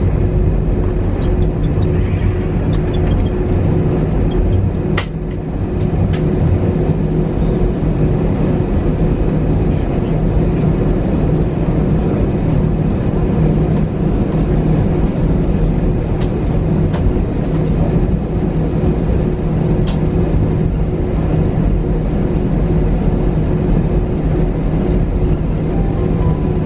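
Steady cabin noise of an Airbus A320-200: a constant low engine hum over a rumble, with a sharp click about five seconds in and another near twenty seconds.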